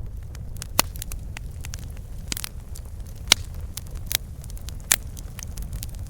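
Campfire burning, with irregular sharp crackles and pops over a low steady rumble; the loudest pops come about a second in, near the middle, and a little before the end.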